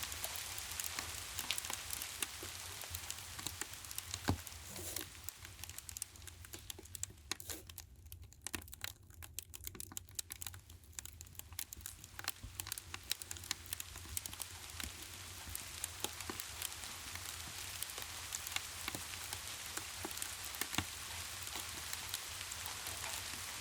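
Steady rain with a wood fire crackling and popping in many sharp little snaps over it, and a low rumble underneath. Between about six and twelve seconds in the rain thins out and the crackles stand out more.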